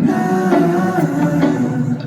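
Live music from a K-pop concert performance: a pop-rock song with a sung vocal.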